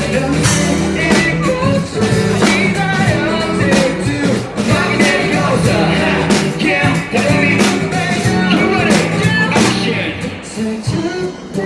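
A live pop-rock band playing, with drums, bass and electric guitar and singing over them; the music eases off a little near the end.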